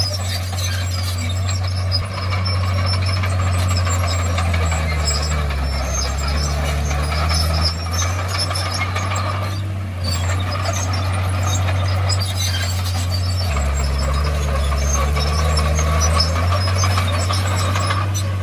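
Crawler bulldozer's diesel engine running hard. Its note is pulled down twice for a few seconds each, as when the blade takes a load. High squeaks and clinks come from the steel tracks throughout.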